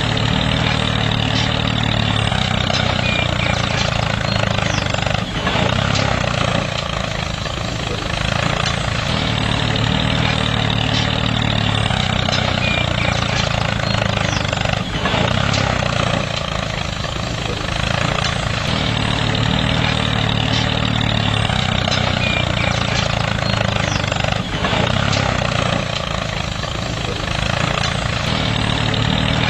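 A motor running steadily without a break: a continuous engine-like drone with a low hum.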